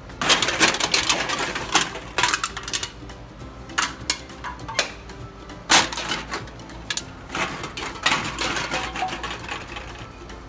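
Empty aluminum cans clattering and knocking against each other in quick irregular bursts, with a few louder single knocks.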